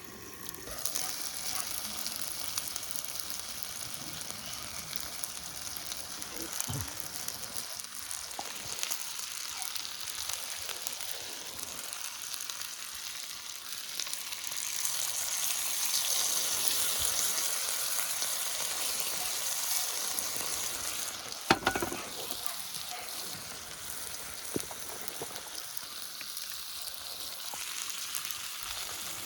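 Seseri (chicken neck meat) frying with garlic in a pan, a steady sizzle that swells louder for several seconds around the middle. A sharp knock a little past two-thirds through, and a lighter one a few seconds later.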